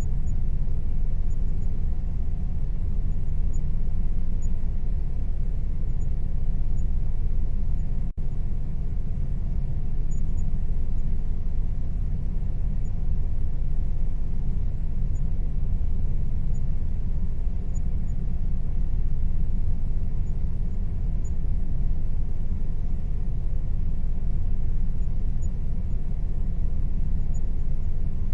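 Air conditioner running with a steady low rumble and a faint constant hum, broken only by a momentary drop-out about eight seconds in.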